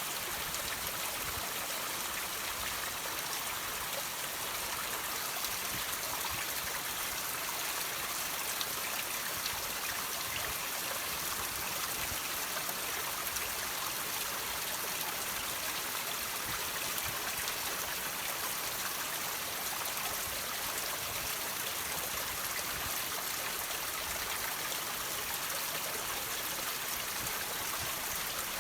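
Water trickling and dripping over rocks, a steady even splashing hiss with faint scattered drips.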